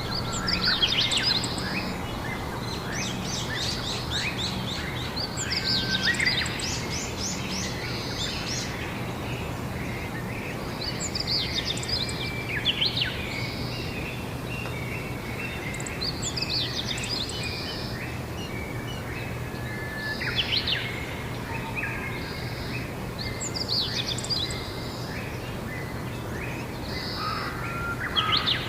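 Songbirds singing outdoors in short chirping, trilling phrases that come every few seconds, over steady background noise with a faint low hum.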